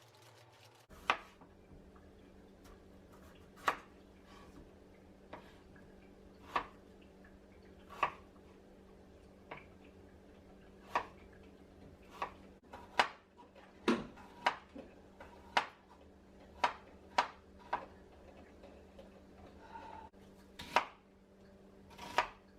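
Knife chopping food on a cutting board, single sharp strikes at an uneven pace, a few seconds apart at first and closer together in the middle, over a faint steady hum.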